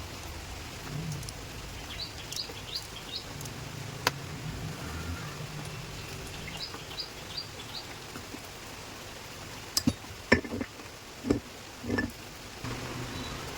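A bird chirping in two short runs of about four quick high notes each over steady background noise. Near the end come several sharp knocks, the loudest sounds here, from hand work on a starter motor being reassembled.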